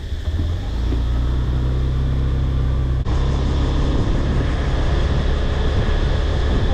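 Honda Scoopy scooter being ridden, its small single-cylinder engine running under a steady low rumble of road and wind noise. The sound drops out for a moment about three seconds in and picks up again.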